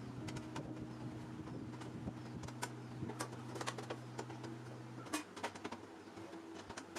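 Scattered light clicks and taps, like small parts being handled, over faint background music whose held low notes stop about five seconds in.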